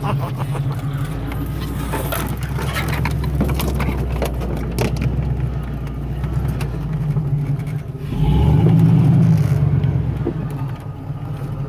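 Off-road vehicle's engine running at low speed on a rough trail, with scattered clicks, knocks and scrapes. The engine swells louder in a short rev about eight seconds in, then drops back.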